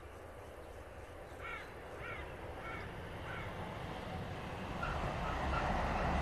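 An approaching electric multiple-unit train's rumble grows steadily louder, the train reaching the bridge near the end. Meanwhile a bird calls four times, about every half second, with a few fainter calls later.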